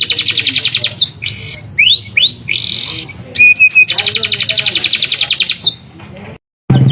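Domestic canary singing hard: two long, fast rattling rolls of rapidly repeated notes, with clear whistled notes and quick rising sweeps between them. The song breaks off briefly near the end.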